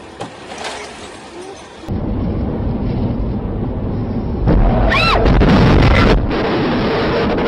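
Loud low rumble from a car dashcam recording, typical of wind and road noise, starting suddenly about two seconds in and growing louder about four and a half seconds in. A brief squeal rises and falls near the five-second mark.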